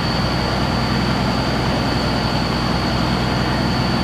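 Water well drilling rig's engine running steadily under a constant load, with a thin high steady whine above it.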